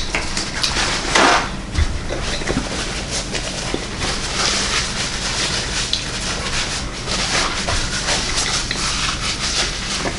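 Chewing a mouthful of veggie burger, with a paper napkin rubbed and rustled across the mouth: a steady, noisy rustling with stronger bursts about a second in and again around four to five seconds in.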